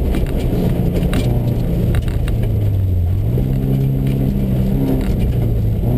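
Subaru rally car's flat-four engine heard from inside the cabin as the car slows on a snowy stage: the engine note falls, then jumps up about three seconds in, like a downshift under braking, with scattered short knocks and tyre noise underneath.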